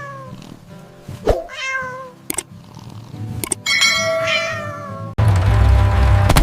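Cartoon cat meowing: a short falling meow at the start, another about a second and a half in, and a longer wavering meow near four seconds, with a few sharp knocks in between. Music comes back loudly about five seconds in.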